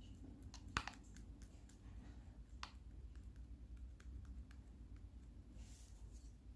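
Yellow slime being handled, giving soft scattered clicks and small pops, with one sharper click about a second in and a brief hiss near the end.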